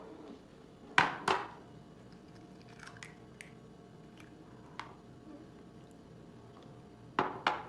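Eggs being cracked on the rim of a bowl: two sharp knocks about a second in, a few small clicks and taps of shell and bowl, then another pair of knocks near the end.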